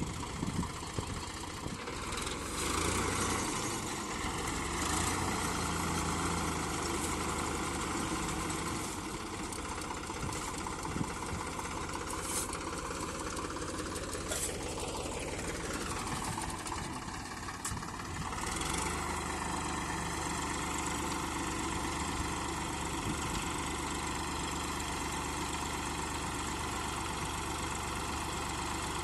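Tractor diesel engine running under load. Its pitch and level shift: the engine picks up a few seconds in, then falls and changes note about halfway through before settling to a steady run.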